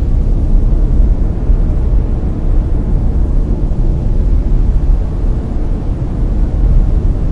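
Layered brown noise: a loud, steady, deep hiss with no pitch or rhythm, heaviest at the low end and thinning out toward the top.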